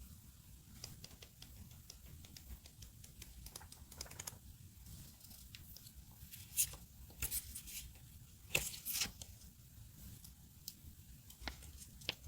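Paper crafting sounds: scattered short tearing and crinkling strokes of paper being handled and torn, with a few louder tears a little past the middle.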